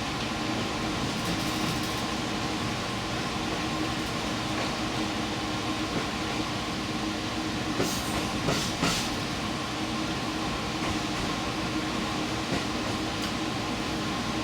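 Furano Lavender Express diesel limited express train running, heard from on board: a steady rumble and hum of the wheels and engine, with a few sharp clicks about eight seconds in.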